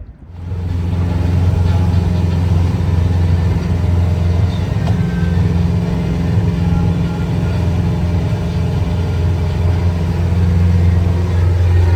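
Fishing boat's engine running steadily under way, a loud low drone that cuts in abruptly just after the start.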